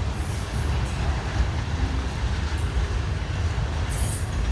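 Freight train rolling past: a steady low rumble of wheels and cars on the track, with brief high hissing, squealing sounds right at the start and again about four seconds in.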